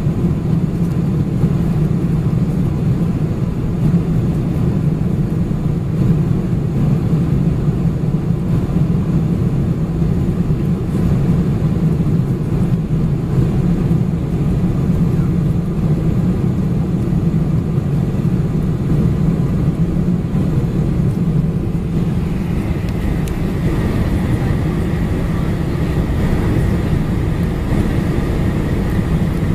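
Steady cabin noise inside a Boeing 747-400 airliner: an even low rumble of engines and airflow. A faint higher whine joins about three quarters of the way through.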